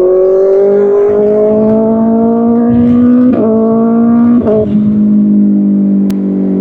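Kawasaki Ninja ZX-6R's inline-four engine through an Arrow Pro Race exhaust, pulling with the revs climbing steadily. Twice, about three and four and a half seconds in, the note breaks briefly as gears change. After that it runs on steadily at a slightly lower pitch.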